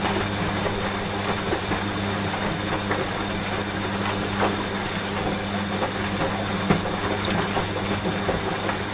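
Steady rain with scattered drops ticking, over the low, even hum of a running washing machine. One sharper tick about two-thirds of the way in.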